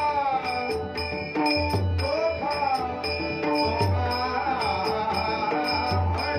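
Marathi bhajan: a male singer's melodic line over sustained instrumental tones, with a hand drum and small cymbals keeping a steady beat.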